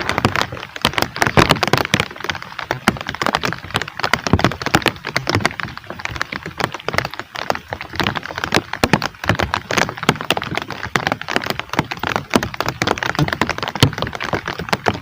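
Heavy rain: a dense, irregular patter of sharp drop impacts hitting a hard surface close to the microphone.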